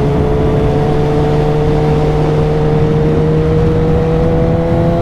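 Suzuki GSX-S inline-four motorcycle engine pulling in one gear, its pitch rising slowly and steadily as the bike gathers speed, over wind and road noise. The engine is still cold, at about 43 degrees.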